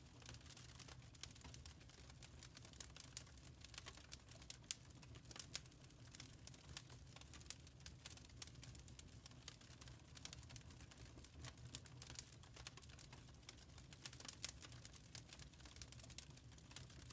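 Fire crackling in a fireplace: faint, scattered sharp pops and snaps over a steady low rumble.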